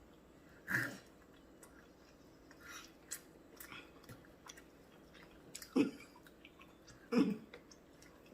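Someone chewing grilled tomahawk steak, with small wet mouth clicks. There are three louder short sounds: about a second in, and near six and seven seconds.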